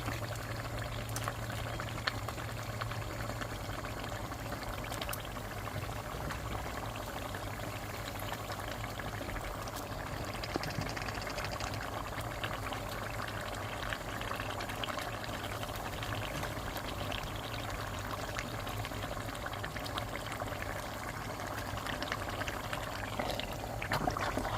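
Pot of efo riro stew with meat stock boiling steadily on the stove: an even, continuous bubbling hiss.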